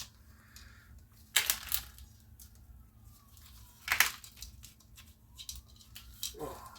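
Three sharp metallic clicks and knocks of tools and parts being handled while a nut is worked loose on a disassembled Tecumseh small engine, two close together about a second in and one near the middle. A low steady hum runs underneath.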